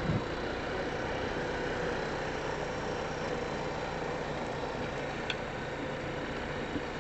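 Four-wheeler (ATV) engine running steadily at low revs, with a short knock right at the start and a sharp click about five seconds in.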